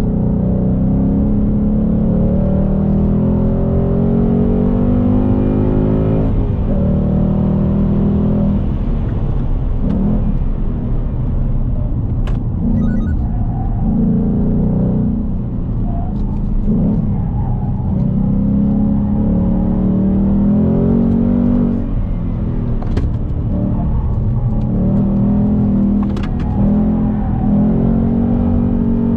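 2020 Ford Mustang GT PP2's 5.0-litre V8, heard from inside the cabin under hard track driving. The engine note climbs in pitch under acceleration and falls off between corners, again and again, with a few sharp clicks mixed in.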